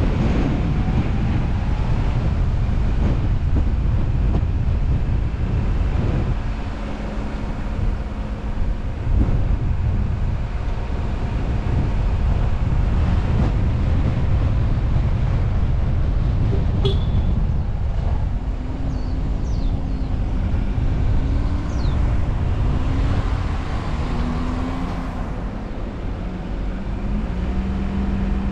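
Car driving along a road: steady engine and tyre rumble throughout, with the engine note wavering in pitch in the second half.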